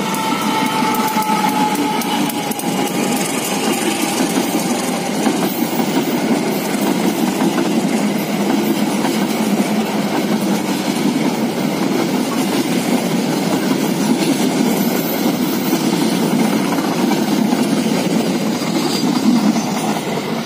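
Diesel-hauled passenger train rolling past on the rails: a steady rumble and clatter of wheels over the track as the coaches go by. A faint thin tone slides down slightly and fades in the first two seconds.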